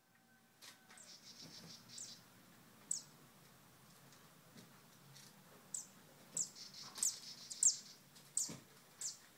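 Small birds chirping: short, sharp high chirps that drop in pitch, repeated irregularly, with a quick trill about a second in.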